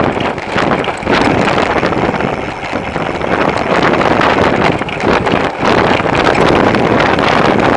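Wind rushing over a bicycle-mounted camera's microphone while riding, with frequent small knocks and rattles from the bike.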